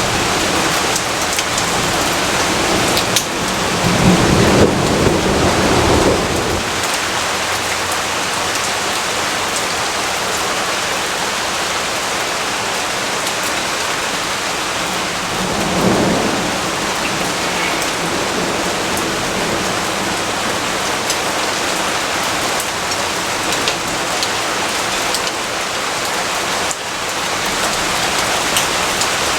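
Steady rainfall, a dense even hiss of many drops, with two low rolls of thunder: a longer one about four seconds in and a shorter one around sixteen seconds in.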